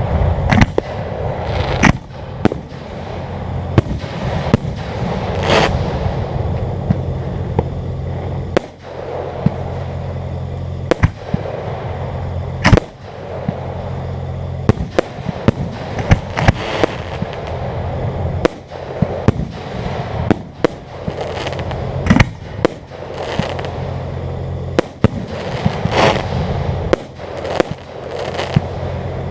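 Fireworks display: aerial shells bursting in a rapid, irregular series of bangs, some followed by crackling, over a steady low hum.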